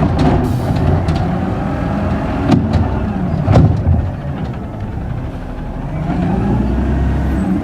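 Garbage truck's engine running, with a couple of sharp metallic knocks about two and a half and three and a half seconds in, and the engine rising again near the end.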